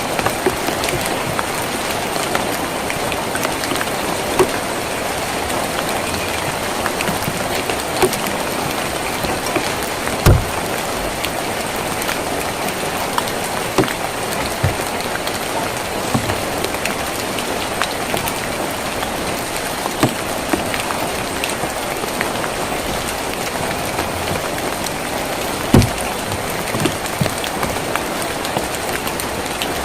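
Steady rain drumming on a tin roof, with scattered louder drops ticking on the metal and two heavier knocks, about 10 and 26 seconds in.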